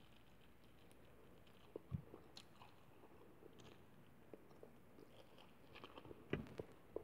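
Faint chewing and mouth sounds of someone eating chicken and rice by hand, with a few scattered sharp clicks, the loudest cluster near the end.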